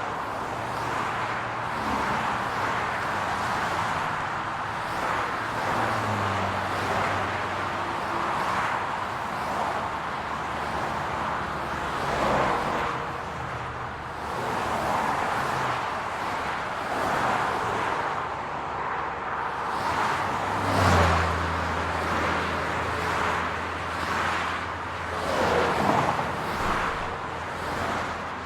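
City road traffic: a steady hum of cars, with several vehicles passing close by. The loudest pass comes about two-thirds of the way through, followed by a low engine hum.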